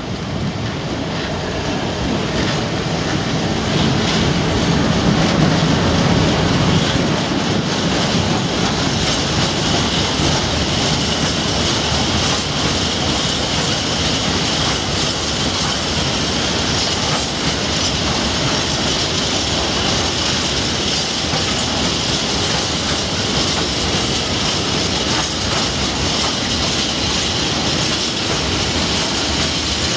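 Colas Rail Class 60 diesel locomotive passing at the head of a long freight train, its engine loudest about five seconds in, followed by the steady rumble and clatter of covered bogie wagons' wheels running over the rails.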